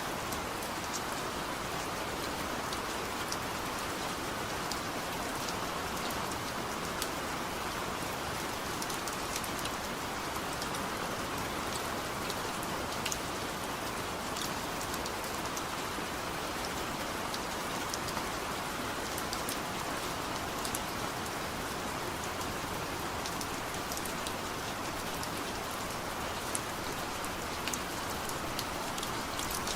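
Steady heavy rain, an even hiss broken by many small drop ticks.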